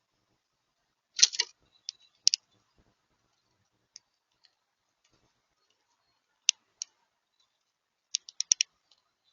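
House sparrow pecking at seed on a feeder: sharp, high clicks and taps in scattered groups, ending in a quick run of four or five.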